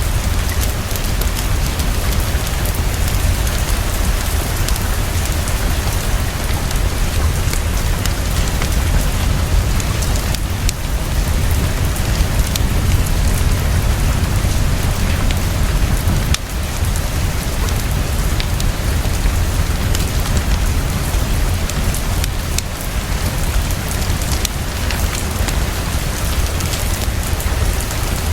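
Heavy rain falling fast and steadily, with a deep low rumble underneath and a few sharp clicks here and there.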